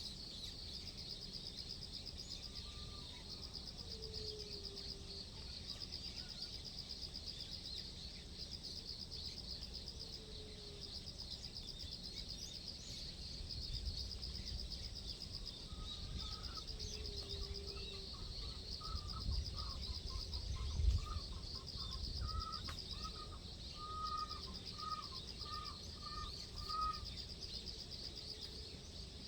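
Dawn outdoor ambience: a steady, pulsing high insect trill throughout, with a short falling call repeating every few seconds and a quick run of bird chirps near the end. A low rumble comes and goes in the middle.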